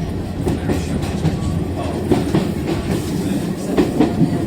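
A steam railway passenger coach running along the track: a steady low rumble with irregular clattering knocks from the wheels and running gear.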